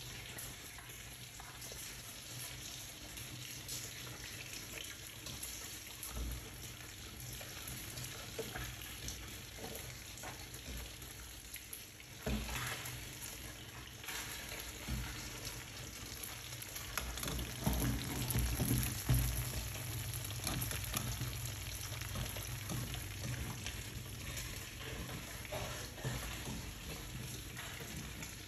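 Food frying, a steady sizzle and crackle, with a few louder bumps and clatters partway through.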